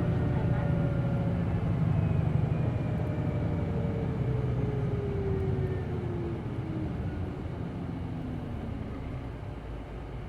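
Hino Blue Ribbon City Hybrid bus's diesel-hybrid drivetrain heard from inside the cabin, slowing down: a low rumble with a whine that slides down in pitch, and the sound dies away steadily as the bus decelerates.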